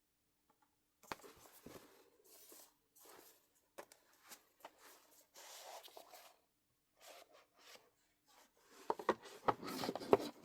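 Rustling and handling of album packaging, with short scrapes and taps, and a louder cluster of clicks and rustles near the end.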